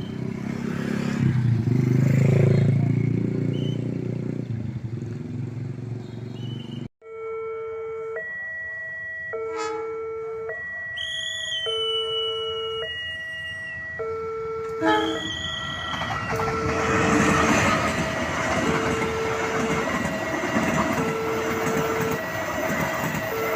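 Road traffic with motorcycles, then after a cut the level crossing's electronic warning alarm, two tones alternating about once a second. From about 16 seconds in, the noise of a passing train rises under the alarm.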